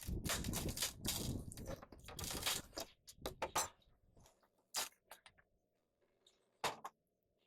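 Hands-on work noises: a few seconds of irregular crunching and scraping, then a handful of scattered sharp knocks and clicks.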